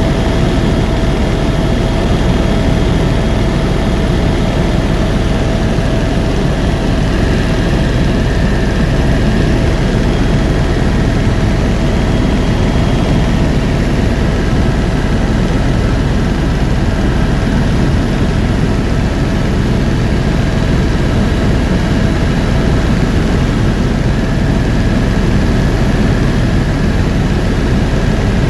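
Helicopter in flight: a steady, loud drone of engine and rotors with a few thin, steady whine tones riding above the low rumble.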